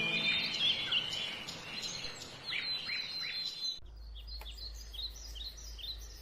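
Birds chirping outdoors, with many short high chirps. About four seconds in, a faint low rumble comes in under a bird that repeats a short downward chirp about three times a second.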